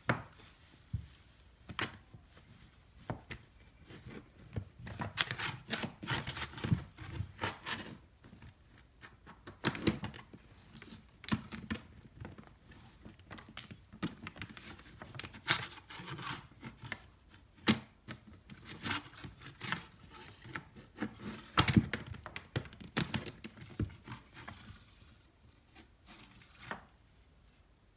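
Irregular knocks, clicks and scraping rustles of someone cleaning under a refrigerator, with a cat batting at the cleaning. The noises thin out near the end.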